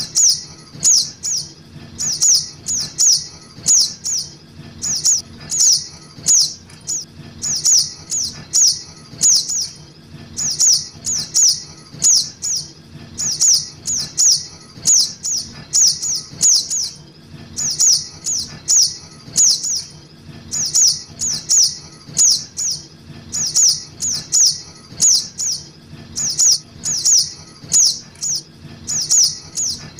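Juvenile sogok ontong (spiderhunter) lure call: short, high, sharp chirps in quick clusters of two to four, repeating without a break, as used to draw wild birds in for trapping. A faint low hum runs underneath.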